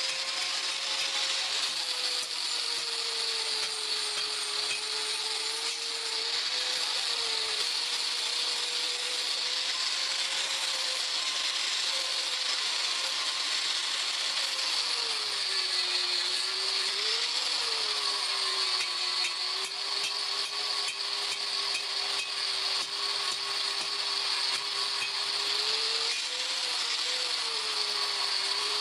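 An electric power tool running steadily over a hiss, its motor tone dropping and recovering several times as it is loaded, most clearly about a third of the way in and again near the end.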